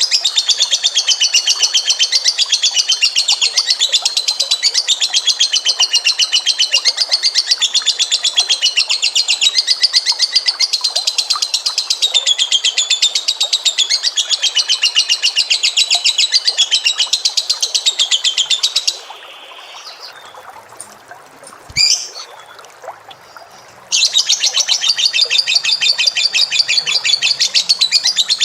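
A lovebird's long, rapid chattering call (ngekek): a fast, unbroken string of sharp repeated notes wavering up and down in pitch. It stops about two-thirds of the way through, leaving a quieter gap of about five seconds with one brief call in it, and then starts again.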